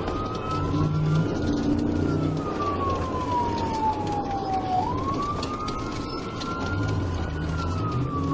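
Police car siren on a slow wail: the pitch climbs quickly and then slides down over about three seconds, starting a second climb near the middle, over the steady engine and road noise of the speeding cruiser.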